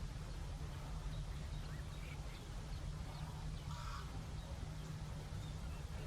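A single harsh bird call about four seconds in, with a few faint short chirps from other birds over a steady low rumble.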